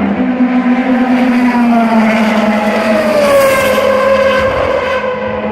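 A Ferrari Formula One car's engine at high revs passing by, loudest about three and a half seconds in, its pitch falling as it goes past.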